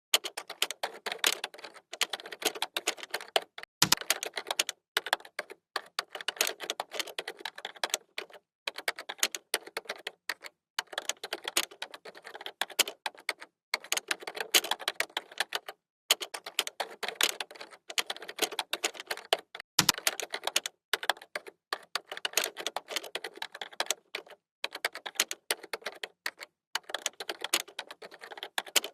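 Typing on a computer keyboard: rapid runs of key clicks lasting a second or two, broken by brief pauses, with a deeper thump twice.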